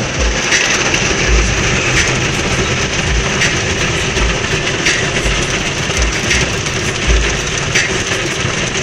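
Automatic car wash working over the car, heard from inside the cabin: a steady loud wash of spray and scrubbing noise with irregular low thumps against the body, about one every half second to second.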